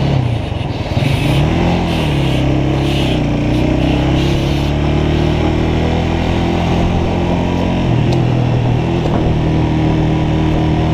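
Motorcycle engine running under way on its stock exhaust, its pitch dipping and rising in the first couple of seconds, then holding steady, dropping again about eight seconds in.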